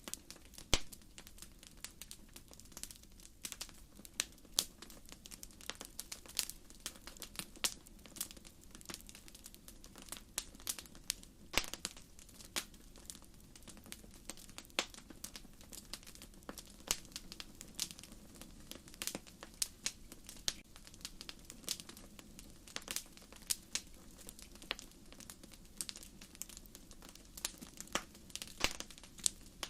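Wood fire crackling: irregular sharp pops and snaps of burning firewood, a few louder pops among many small ones, over a low steady hiss of the flames.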